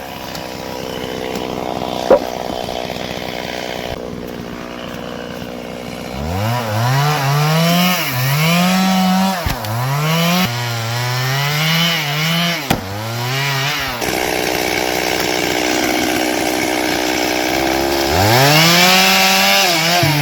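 Chainsaw engine running at a low, steady speed for the first few seconds, then revved up again and again, its pitch climbing and sagging repeatedly as it cuts into firewood. There is a sharp click about two seconds in.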